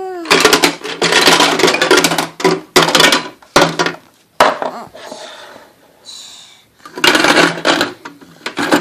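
Loud clattering and rattling of hard objects knocking together, in two spells with a quieter gap of a couple of seconds between them.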